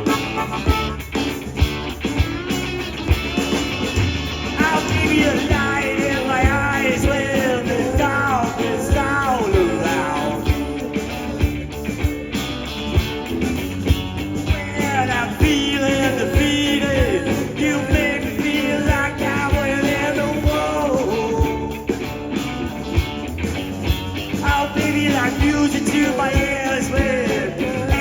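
Live blues-rock band playing an instrumental passage: a lead line with notes bending up and down over a steady drum beat.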